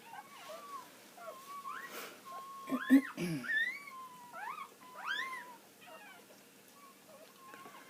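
Newborn puppies squeaking and crying, many short high calls that rise and fall, growing fainter in the last couple of seconds. A brief louder, lower sound comes about three seconds in.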